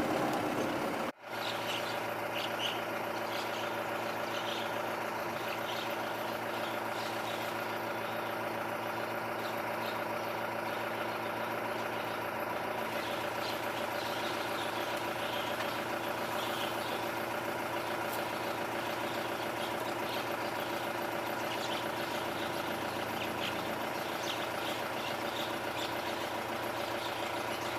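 A vehicle engine running steadily at a constant speed, with a momentary break in the sound about a second in.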